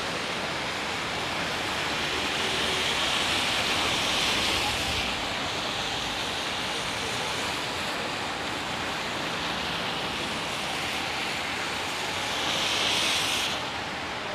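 Steady hiss of heavy typhoon rain and gusting wind on a city street. It swells louder twice, once about two seconds in and again near the end.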